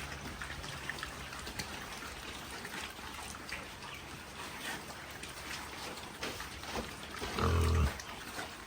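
Scattered small clicks and rustling over a steady noisy background, with one short, low, pitched animal call near the end.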